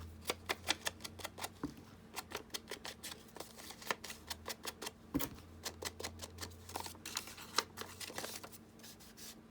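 Rapid, irregular light tapping of an ink pad or blending tool dabbed against a paper tag, distressing it with ink, about several taps a second.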